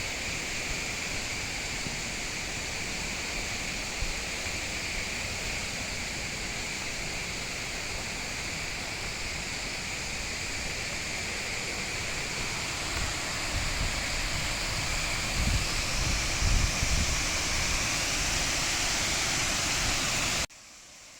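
Waterfall's steady rush of falling water. A low rumble swells in the later seconds, and the sound cuts off abruptly near the end.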